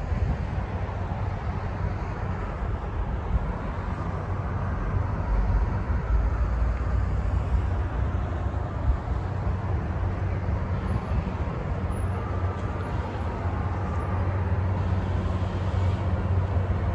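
NJ Transit diesel push-pull commuter train approaching the station, cab car first: a steady low rumble that grows louder near the end as the train draws near.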